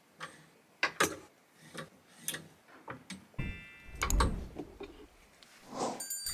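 Plastic clothes hangers clicking and knocking against a closet rail and against each other as garments are slid along and rehung, with a heavier knock about four seconds in.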